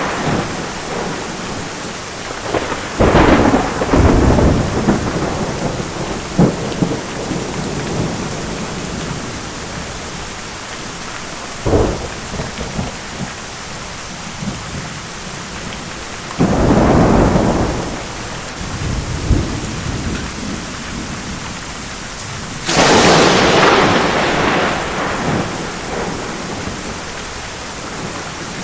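Thunderstorm: steady heavy rain with several thunderclaps. A sharp crack comes about twelve seconds in, and rumbling peals come near the start, midway and near the end.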